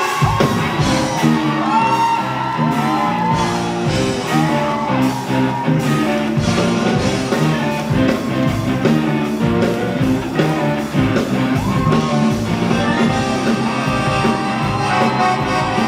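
Amplified live pop music in a concert hall: an instrumental passage between sung lines, with a steady drum beat and a lead melody that slides in pitch.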